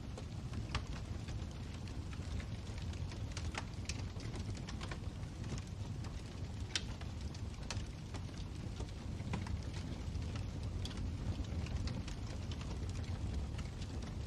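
Fireplace fire crackling: irregular sharp snaps and pops scattered over the steady low noise of the burning.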